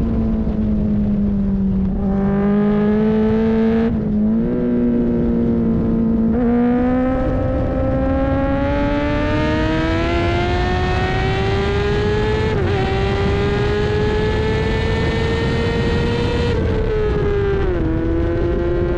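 Racing motorcycle engine pulling hard at speed. Its pitch sags at first, then climbs slowly, with several short dips as the rider shifts or eases the throttle.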